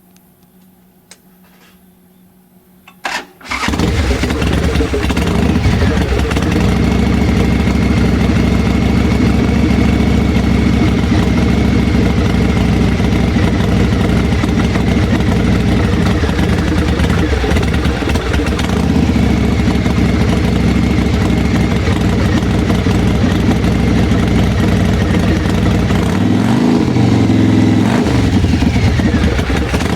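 Supercharged engine fired up for the first time after sitting a long time: a few faint clicks, then it catches about three seconds in and runs loud and steady. It is revved a few times near the end.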